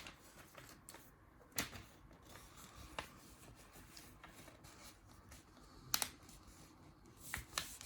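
Sheet of paper being folded and creased by hand, with a few sharp paper crackles spread apart, the loudest about six seconds in.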